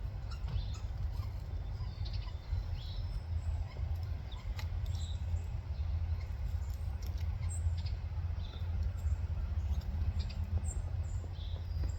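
American goldfinches giving short, high chirps and twittering calls, scattered irregularly, over a steady low rumble.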